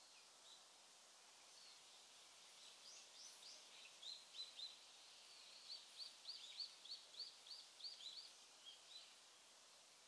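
A small songbird calling faintly: a run of short, high, falling notes, a few around three to four seconds in and then a quicker string of about eight from six to eight seconds. Under it is a steady faint outdoor hiss.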